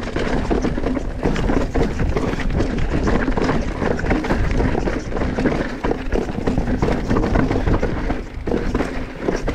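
Mountain bike clattering down a rocky trail: tyres knocking over rock and the bike rattling with every bump, a dense run of knocks and clatter.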